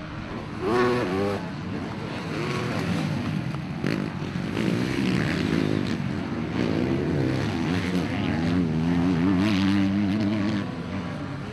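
Motocross motorcycle engines running and revving hard, their pitch rising and falling with the throttle; one rev stands out about a second in.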